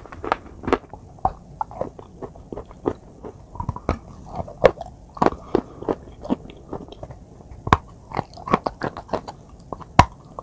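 Close-miked biting and chewing of a hard white chalk or clay bar loaded with wet brown clay paste. It is heard as irregular sharp crunches with wet, sticky mouth sounds between them.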